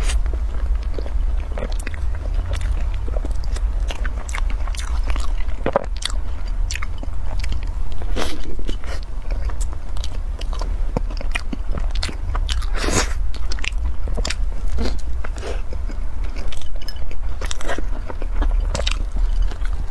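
Close-miked eating of a golden crumb-coated bun with a soft yellow filling: many small crunches and wet mouth clicks while chewing, over a steady low hum.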